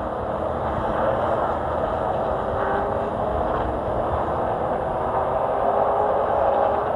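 Stock-car race truck engine running steadily at racing speed, an unbroken engine sound under race conditions.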